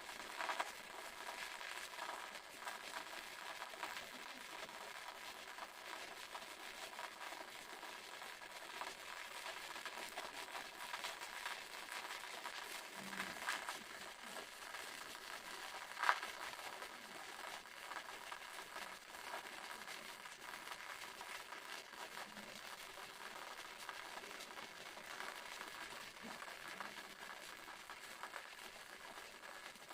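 Waterfall: a steady rush of falling, splashing water, mostly high-pitched, with scattered small clicks and one sharper click about 16 seconds in.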